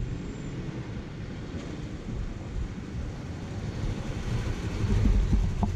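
Carbureted small-block Chevy V8 in a 1970 Chevelle running with a low, uneven exhaust rumble as the car is driven, growing louder about five seconds in.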